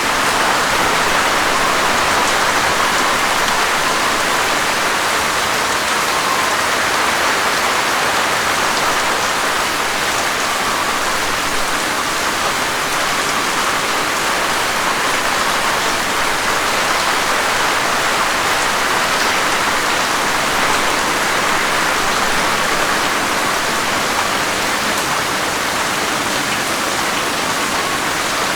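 Steady heavy rain falling, a dense even hiss of drops with no single drops or thunder standing out.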